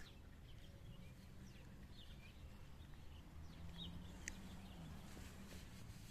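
Faint songbird chirping: scattered short chirps and calls from small birds, with one sharper call about four seconds in, over a steady low rumble.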